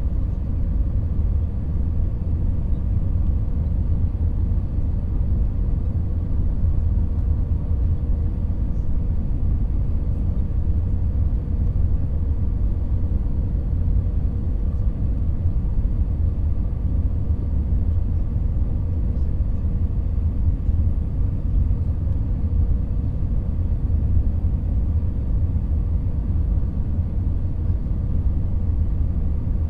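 Steady low rumble of an airliner heard from inside the passenger cabin, jet engines and airflow with a faint steady whine running through it.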